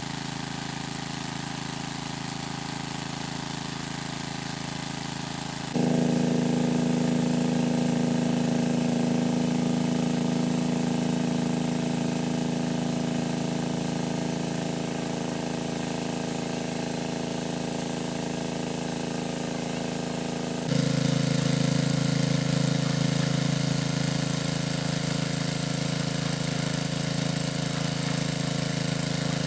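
A small engine running steadily, with abrupt jumps in level and tone about six seconds in and again about twenty-one seconds in.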